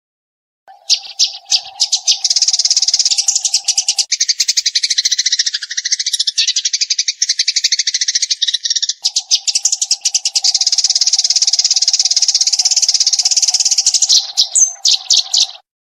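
Eurasian tree sparrow chattering in a fast, unbroken run of high chirps, a rapid-fire song. It starts about a second in and cuts off abruptly near the end.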